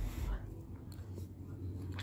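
A person eating: soft chewing of a mouthful of food, after a brief hiss at the start.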